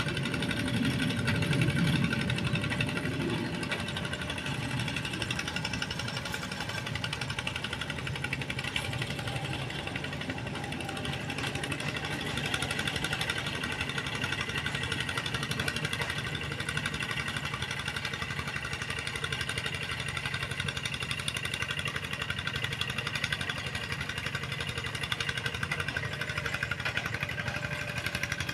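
Tractor engine running steadily, a little louder for the first few seconds.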